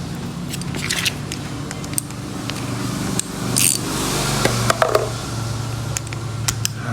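Small metal clicks and scrapes of a wrench working the stiff bolts of a motorcycle starter motor as it is taken apart, over a steady low hum.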